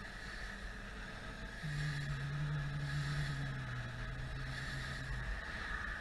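A motorcycle running on the road with wind noise. A steady low engine note holds from a couple of seconds in until about five seconds.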